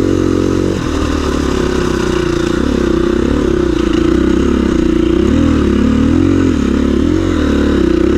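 KTM 350 EXC-F dirt bike's single-cylinder four-stroke engine running under changing throttle, its pitch rising and falling again and again as the rider works the throttle on rough ground.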